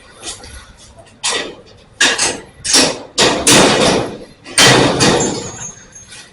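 A series of about six loud, sudden knocks or thumps, irregularly spaced, each trailing off over half a second or so, coming closer together in the middle.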